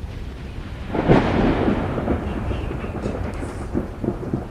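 A thunderclap breaking about a second in, then rumbling and crackling as it slowly fades.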